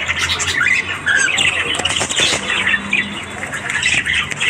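Budgerigars chattering and warbling: a dense, unbroken stream of short chirps, squawks and twittering notes.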